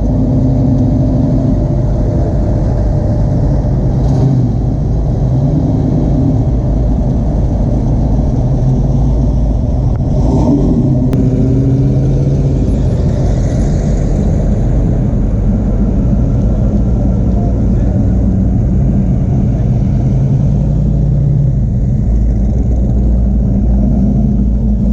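A car engine running with a deep, steady rumble, its pitch rising and falling as it is lightly revved, with voices in the background.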